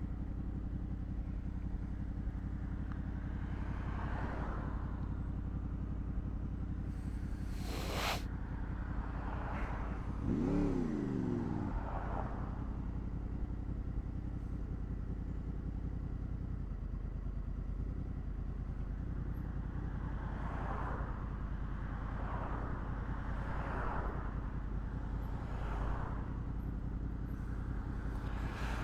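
Honda VFR800's V4 engine running steadily while riding, under a drone of wind noise. There is a short swish about eight seconds in, and the engine pitch rises and falls briefly a couple of seconds later.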